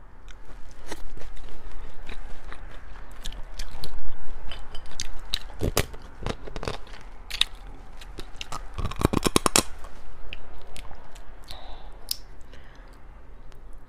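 A person eating spicy shellfish close to the microphone: shells cracking and crunching between bites and chewing, with a quick run of sharp cracks about nine seconds in.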